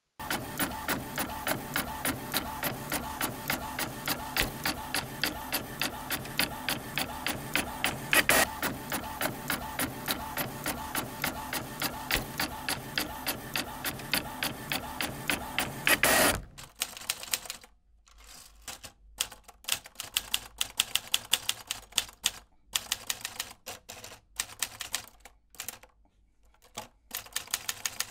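Typewriter typing: a quick, steady run of key clacks for about sixteen seconds, with a louder strike about halfway and another just before the background drops out. After that the typing carries on in short bursts with pauses between them.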